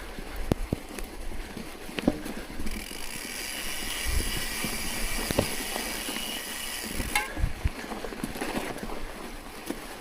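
Bicycle ridden through fresh snow: uneven knocks and crunches from the ride. A steady high buzzing hiss starts abruptly a few seconds in and stops abruptly about seven seconds in.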